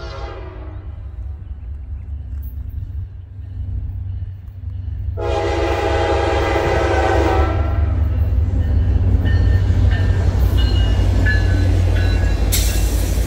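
Passenger train approaching and passing. Its locomotive horn sounds a short blast that fades at the start and a long blast of about two seconds about five seconds in. The wheels then rumble and clatter past on the rails, growing loud, with a few brief high-pitched wheel squeals.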